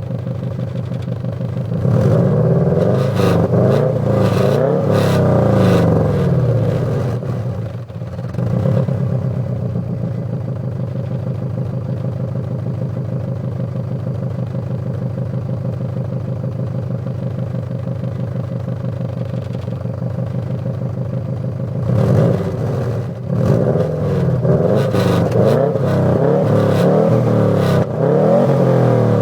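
Subaru Forester turbo's flat-four boxer engine through its exhaust, idling and being revved in repeated blips: a run of revs a couple of seconds in, a long steady idle, then another run of revs near the end.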